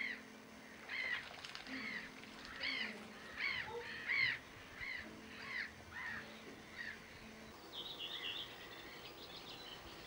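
Birds calling: a run of harsh, arched calls, one or two a second, then a short burst of chattering near the end.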